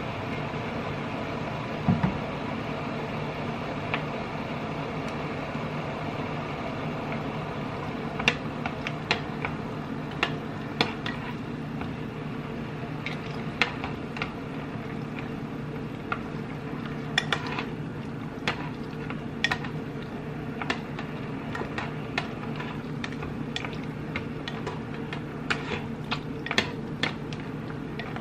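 A spoon or spatula clinks and scrapes against a cooking pot as the broth is stirred. The sharp clicks start about a third of the way in and come irregularly over a steady hum.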